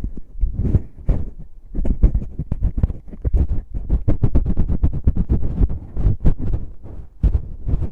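Fingers rubbing and tapping on a binaural microphone's ears, quick muffled strokes several times a second, heavy in low thumps, with a brief lull about a second and a half in.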